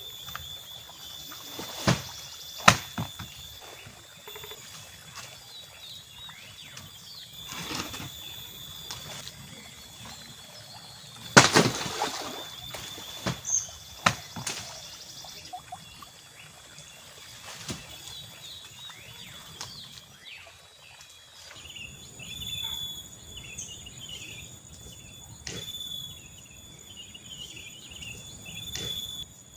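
Outdoor ambience of insects holding two steady high-pitched buzzing tones, with birds chirping rapidly from about two-thirds of the way in. Several sharp knocks stand out, the loudest about a third of the way through.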